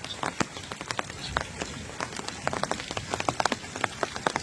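Rain dripping onto a hard surface: irregular sharp drip taps, several a second, over a steady hiss of rainfall.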